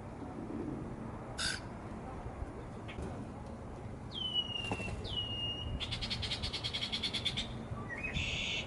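Wild songbirds calling: a short harsh call, then two clear down-slurred whistles, a rapid trill of about ten notes a second, and another harsh call near the end.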